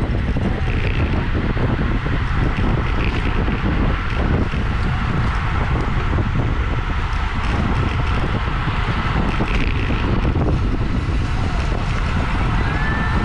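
Steady wind buffeting the microphone of a bike-mounted camera on a road bike moving at speed, a loud rumbling rush.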